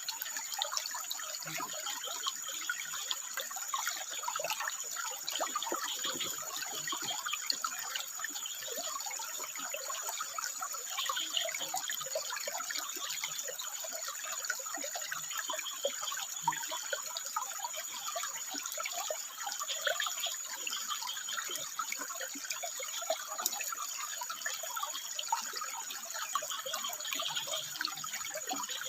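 Water trickling and splashing over rocks: a steady babble made of many small splashes and drips.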